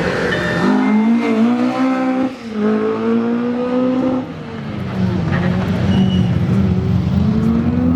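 Rally car engine revving hard as it accelerates through the gears. The rising pitch breaks with short dips at the shifts, about two and four seconds in, then climbs again.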